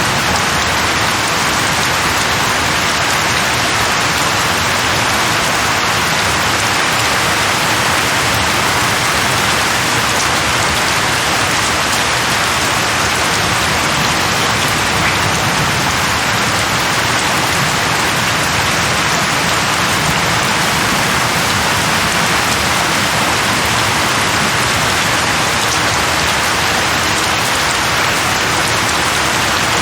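Steady heavy rain falling, an even hiss of drops hitting surfaces with no let-up.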